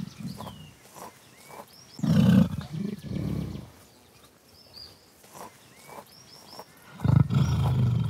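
Two bouts of deep, low growling calls from a large animal, the first about two seconds in and lasting over a second, the second starting near the end. Small birds chirp in the quieter stretch between them.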